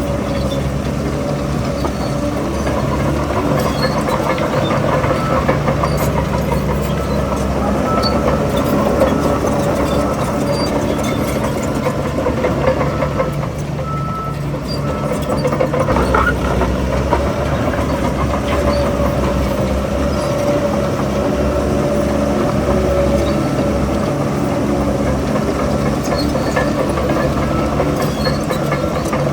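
Heavy diesel earthmoving machinery running steadily with a deep, continuous engine hum. The sound eases a little about halfway through, then the low engine note picks up again.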